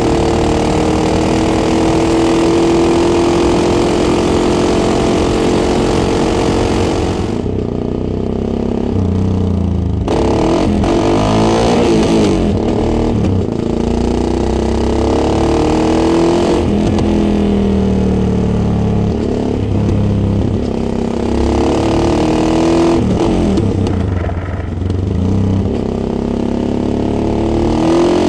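Yamaha XTX 660's single-cylinder four-stroke engine heard from a bike-mounted microphone while riding, its pitch rising as it pulls through the gears. Several times the throttle closes and the sound drops away before it picks up again.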